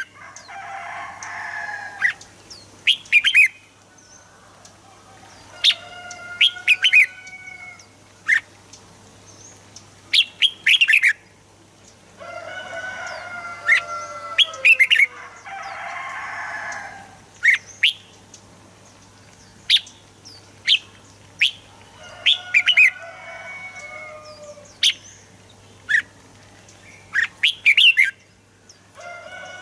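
Red-whiskered bulbul singing: clusters of short, bright whistled notes every second or two, mixed with a few longer, rough chattering notes. A faint steady hum runs underneath.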